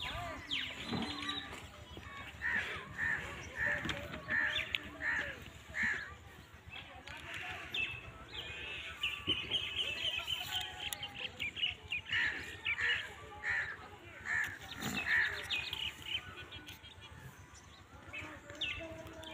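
Birds calling: a run of short repeated calls about twice a second, then a rapid chatter, then a second run of repeated calls.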